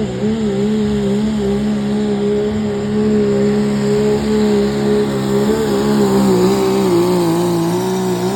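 A pulling vehicle's engine running at high revs under load during a truck or tractor pull. The note holds nearly steady with a slight waver and drops away at the very end.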